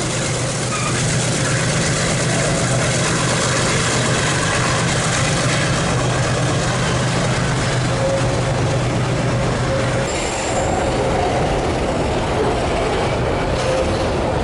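Freight train rolling past: steel wheels running on the rails with a continuous dense rumble and a steady low drone, and a faint high wheel squeal starting about ten seconds in.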